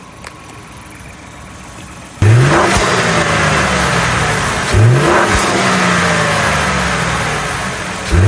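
Ford 2.7-litre twin-turbo EcoBoost V6 being revved in three sharp blips: the first about two seconds in, then near the middle and again at the end. Each time the revs climb quickly and then fall back slowly.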